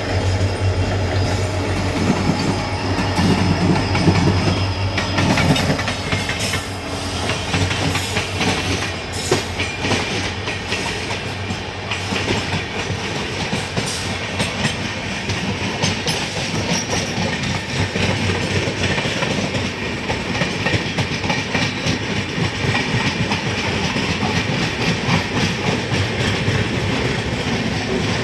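Indian express passenger train rolling through a station, its coach wheels clattering over the rail joints. A steady low hum in the first five seconds gives way to a dense run of clicks and knocks.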